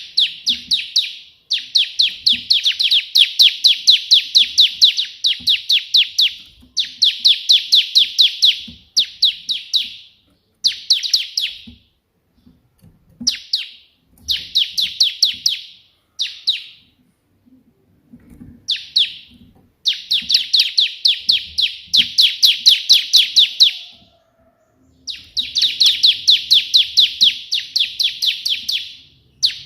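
Bar-winged prinia (ciblek) singing its 'tembakan' song in the style of the prenjak: bursts of rapidly repeated sharp, high chirps, about five or six a second, each burst lasting one to a few seconds and separated by short pauses.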